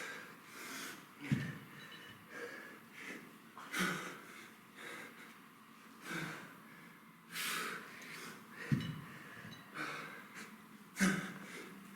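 A man breathing hard under exertion during a kettlebell set: forceful exhales and gasps repeating every second or two in time with his reps.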